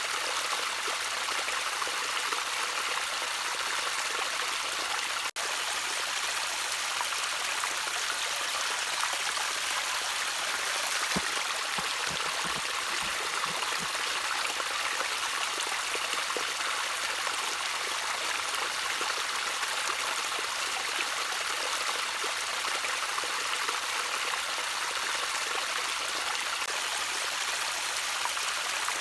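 Water trickling steadily over stones in a small stream, an even, hissing babble, with a split-second dropout about five seconds in.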